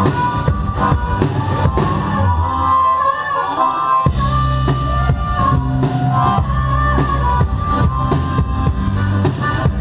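Live rock band playing an instrumental passage without vocals: drum kit, bass and a melodic lead line. The bass thins out for a moment and comes back in full about four seconds in.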